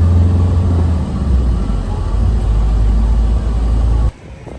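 Steady low rumble of a moving vehicle's engine and road noise. It cuts off abruptly near the end, leaving a much quieter background.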